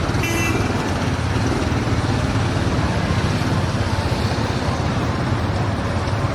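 A steady, loud vehicle rumble.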